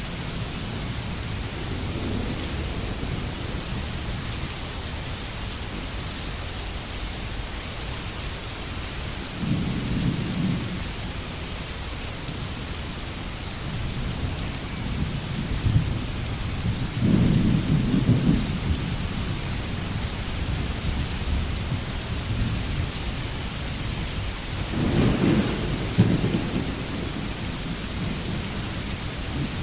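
Steady rain falling in a forest, with low rolls of thunder rising out of it about four times.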